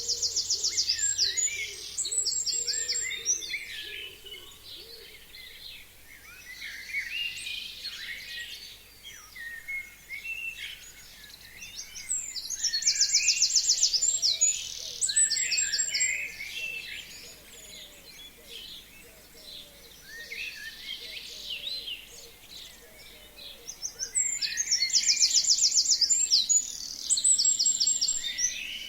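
Forest songbirds singing. One bird repeats a loud, fast trilled song three times, each about three seconds long and roughly twelve seconds apart, over a steady background of other birds chirping and calling.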